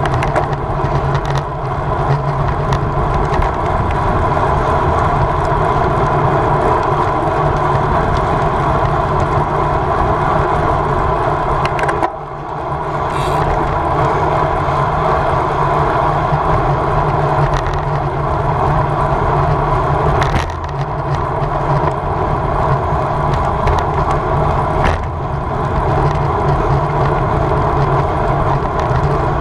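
Steady rush of wind and road noise from a road bicycle ridden at race speed, with three short dips in loudness about twelve, twenty and twenty-five seconds in.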